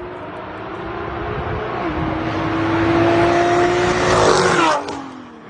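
Car engine pulling hard under full throttle in a drag race, its note climbing steadily, with an upshift about two seconds in. It grows louder, then drops in pitch and fades near the end as the throttle comes off.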